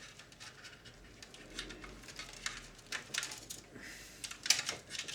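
Light clicks and taps of small plastic and metal parts being handled during the strip-down of a video recorder's tape mechanism, irregular, with a few louder clusters of clicks about three and four and a half seconds in.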